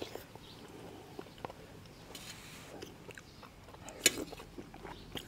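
Quiet chewing and mouth sounds of someone eating, with scattered small clicks and one sharp click about four seconds in.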